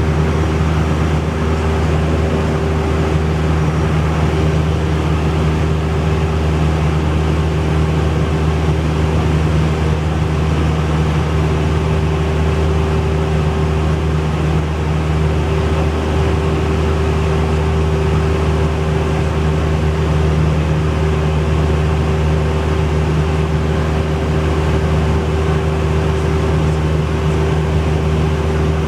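Cessna 172's piston engine and propeller running at a steady, unchanging power setting, a loud constant drone.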